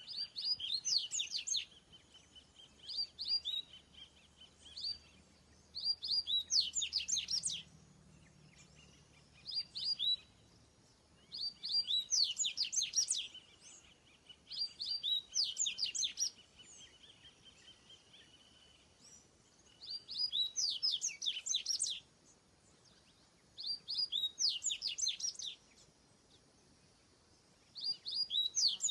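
A songbird singing a repeated phrase of rapid, high chirps, each phrase lasting about one and a half to two seconds and coming back every three to four seconds. A faint, steady high tone hangs between some of the phrases.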